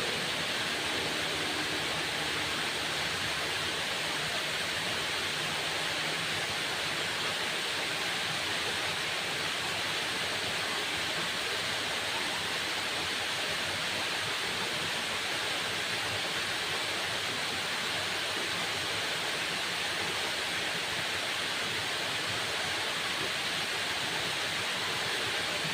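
Waterfall: falling water rushing in a steady, unbroken hiss that holds the same level throughout.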